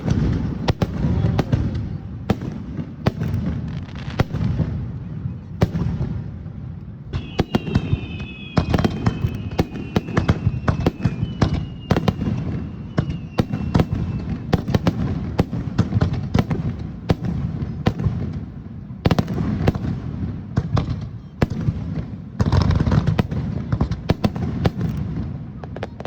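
Aerial fireworks shells bursting in quick succession: deep booms mixed with sharp cracks and crackling. About a third of the way through, a few high whistling tones glide slightly downward over the bangs.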